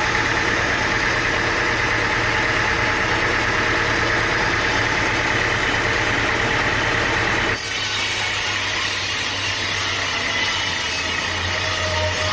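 An engine running steadily, with a steady hum and hiss; the sound changes abruptly a little past halfway through.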